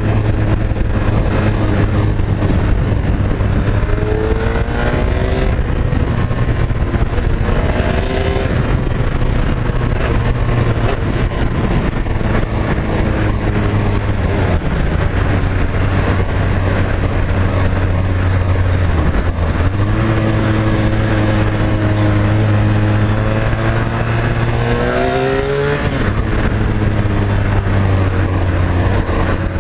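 Honda VFR1200F's V4 engine running at highway speed under strong wind and road rush, a steady drone whose pitch climbs several times as the bike accelerates.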